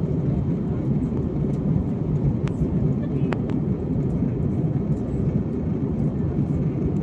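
Steady low roar of an Airbus A321neo's cabin, from engine and airflow noise. Two brief clicks come about two and a half and three and a half seconds in.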